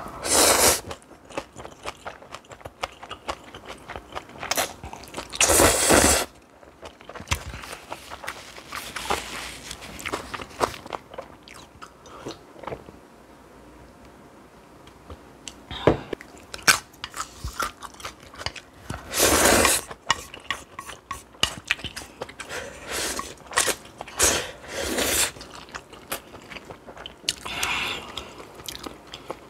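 Close-miked eating: a person chewing and crunching on spicy stir-fried noodles and kimchi, with many small wet clicks and four louder bites or slurps.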